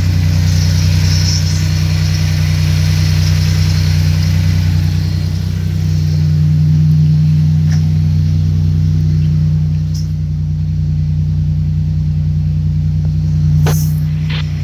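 2006 Chevrolet Equinox's 3.4-litre V6 idling steadily, with a few brief clicks near the end.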